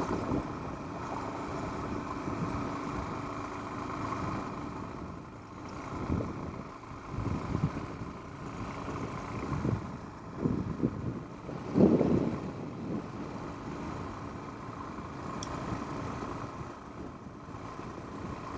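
Suzuki DR-Z400 single-cylinder four-stroke motorcycle engine running steadily at low speed, with a few brief louder bursts around the middle.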